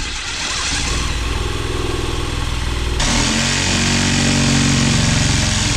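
A motor-driven machine running loudly and steadily. About three seconds in it shifts pitch and gets a little louder and harsher.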